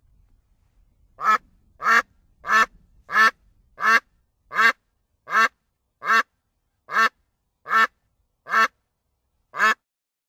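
A duck quacking: twelve short, separate quacks in a steady series starting about a second in, coming a little more slowly toward the end.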